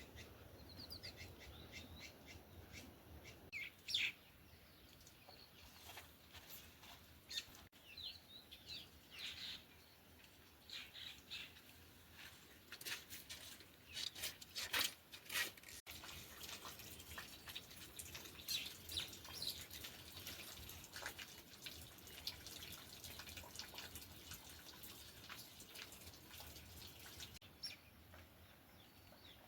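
Faint, repeated short bird chirps, with a soft steady hiss behind them that grows a little stronger midway through.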